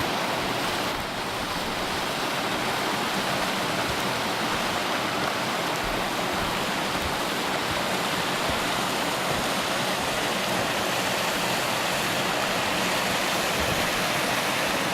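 Steady rush of a fast-flowing creek running through a rocky canyon.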